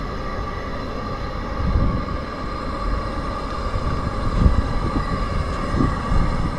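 Steady whine of a small motor holding a constant pitch, over low buffeting of wind on the microphone.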